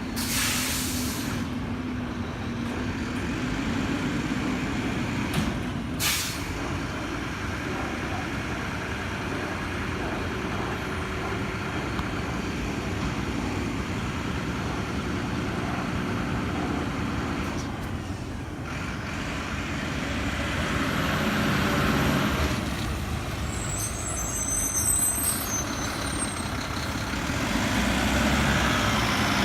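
Mack LEU garbage truck with a Heil rear-loader body, its diesel engine running steadily. Air brakes give two short hisses, about a second in and about six seconds in. A few high squeals come later on.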